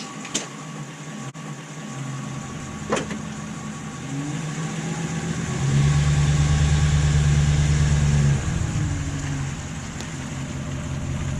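Tow vehicle's engine working under load as it pulls a travel trailer out from where it has sat for months. The engine sound builds from about two seconds in and is loudest around the middle. It eases for a moment, then rises again near the end.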